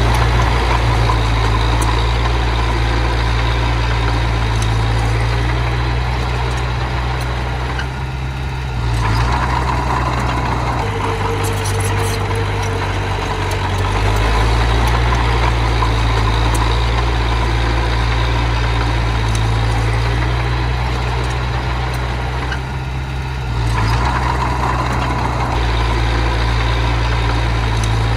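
Diesel engine of earth-moving machinery running steadily. Its sound drops briefly twice, about eight seconds in and again about twenty-two seconds in, and picks back up each time.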